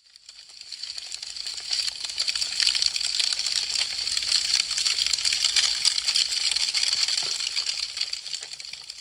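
Wood fire crackling: a dense, rapid stream of small pops and snaps from burning wood. It fades in from silence over the first two seconds and fades out near the end.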